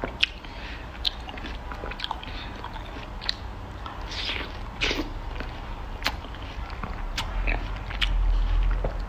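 Close-up biting and chewing of crunchy food, with sharp crunches about once a second. A low rumble comes up near the end.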